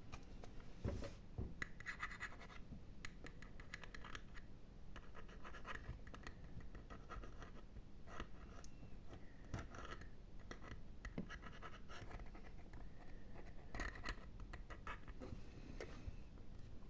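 Close-up ASMR scratching on a surface near the microphone, in quick runs of many short, dry strokes that come and go in clusters.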